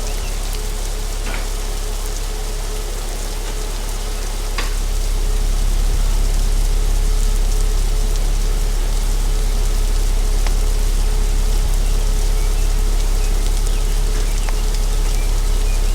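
Car wash water spray hissing steadily over a low machinery hum, growing louder about four and a half seconds in.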